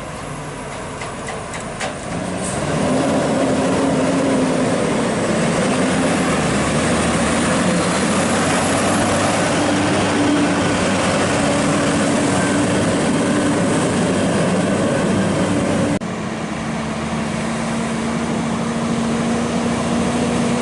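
Heavy truck running on the road: steady engine drone with wavering tone and road noise, getting louder a couple of seconds in. It changes abruptly about 16 seconds in to a steadier engine tone.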